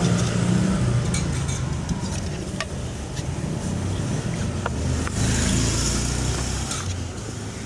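Low engine rumble of a road vehicle running nearby, building to a passing surge with tyre hiss about five seconds in, with scattered light clinks of dishes and utensils.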